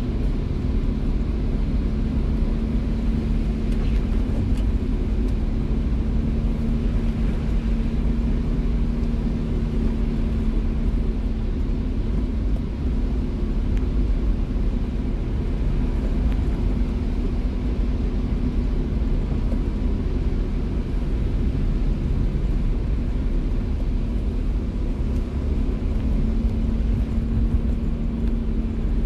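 Car driving in the rain: a steady low engine and road rumble with a held drone, under an even hiss of rain and wet tyres.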